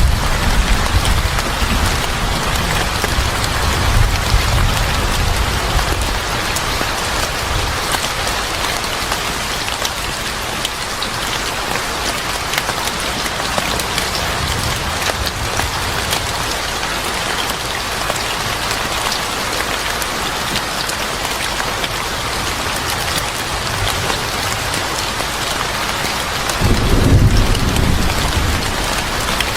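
Steady heavy rain falling, with low rumbles of thunder at the start and about four seconds in, and a louder roll of thunder near the end.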